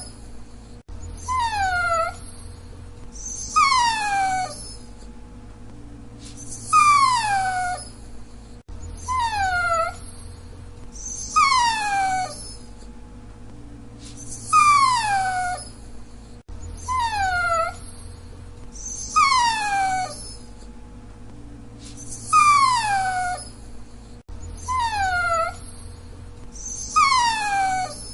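Dachshund whining: high, falling whines, each under a second long, about eleven in all. They come in groups of three, and the same sequence repeats about every eight seconds.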